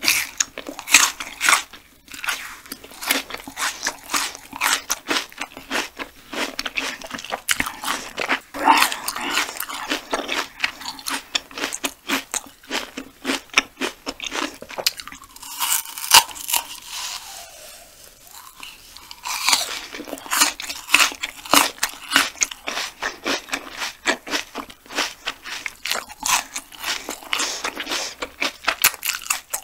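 Close-miked biting and chewing of banana stem pith: many quick sharp crunches and wet mouth sounds as the stringy core is bitten and its fibres pulled out.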